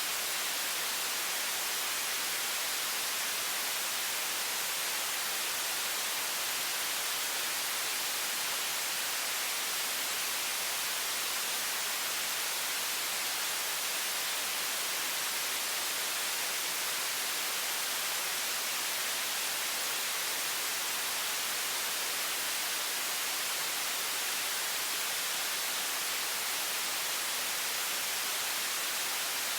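High-pressure water faucet stream running as a steady, even hiss, bright and unchanging, with little low end.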